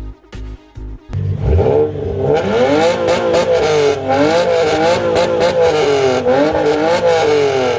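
Car engine revving hard through a loud exhaust. The revs climb and fall again and again for several seconds. About a second of electronic dance music comes first.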